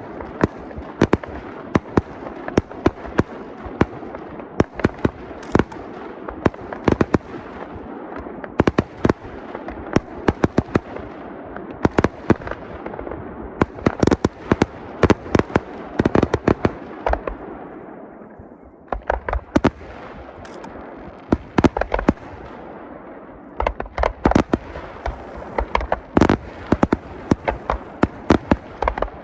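Fireworks going off in a rapid barrage of sharp bangs, several a second, over a continuous rumble of shells. There is a brief lull just past halfway, then the bangs resume.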